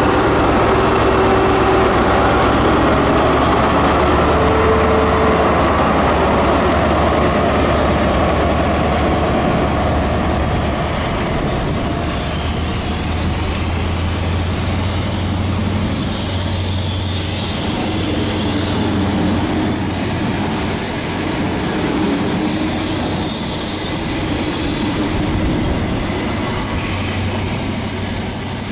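Class 43 HST power car's MTU diesel engine pulling a train away from the platform, a steady low hum. From about a third of the way in, the hiss and rumble of Mk3 coach wheels on the rails build up as the coaches roll past.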